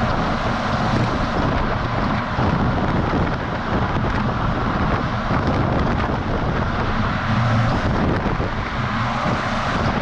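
Steady wind rush buffeting a camera microphone mounted on the outside of a moving semi truck, over the low drone of the truck's engine and tyres on the road.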